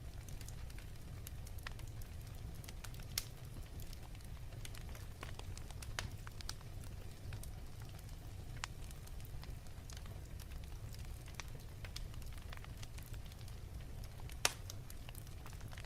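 Wood fire in a fireplace crackling: scattered small pops over a steady low rumble, with two sharper pops, about three seconds in and near the end.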